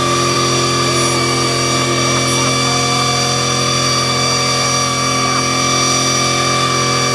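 An engine running at a constant speed, a loud, steady drone that holds one pitch throughout.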